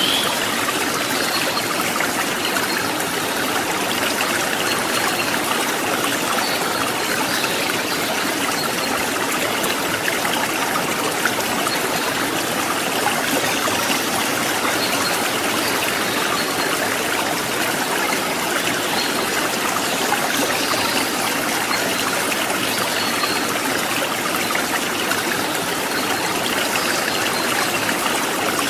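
Running stream water babbling and trickling steadily, an even unbroken wash of sound.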